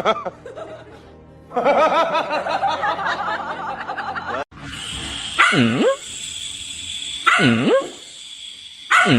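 A dog gives three short barks, each dipping then rising in pitch, evenly spaced just under two seconds apart, over a steady high hum. Before them, up to a sudden cut about halfway through, there is a stretch of music.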